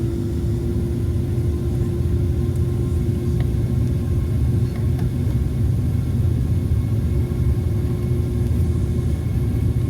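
Airliner cabin noise on the ground: a steady low rumble with a constant humming tone that fades out near the end.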